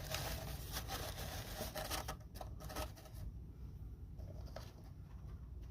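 Light scratching and rustling with small clicks, busiest in the first two seconds and then quieter.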